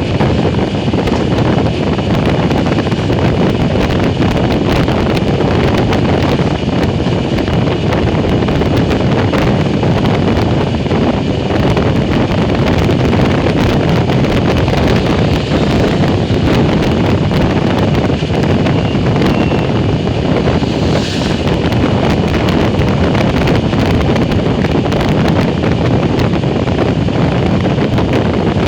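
Loud, steady wind rushing over the microphone of a moving motorcycle.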